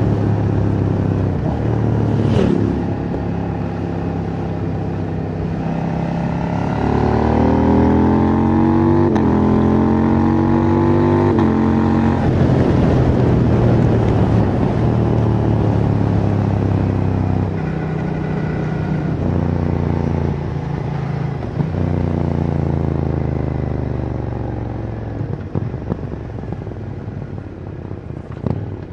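KTM 790 Duke's parallel-twin engine, stock exhaust, pulling hard through the gears. The revs climb and drop back in quick steps at each quickshifted upshift, then fall away slowly through a long deceleration with a few downshifts.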